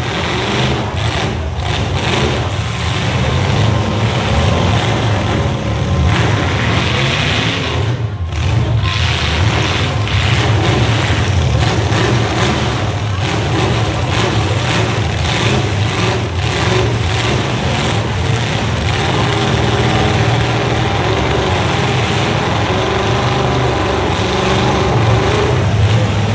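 Several demolition derby cars' engines running and revving together in a loud, continuous din as the wrecked cars push against each other.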